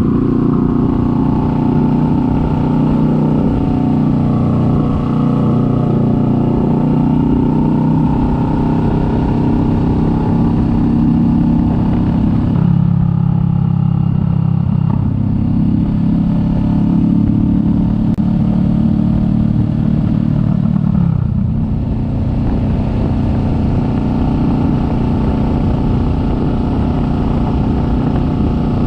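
Kawasaki Vulcan S 650's parallel-twin engine running while the bike is ridden. The engine note drops twice, about halfway through and again roughly two-thirds of the way in.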